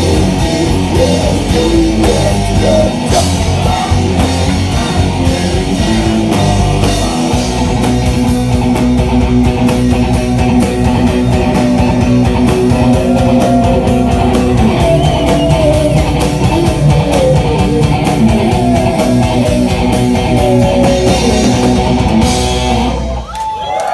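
Heavy rock instrumental played on electric guitars and a drum kit, with no vocals. It stops abruptly near the end.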